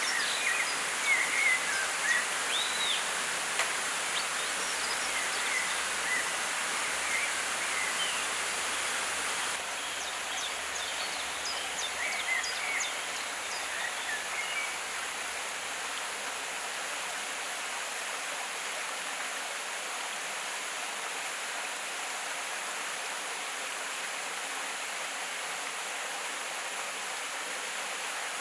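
Steady rush of a flowing forest stream, with birds chirping over it through the first half. The water noise drops a little about ten seconds in.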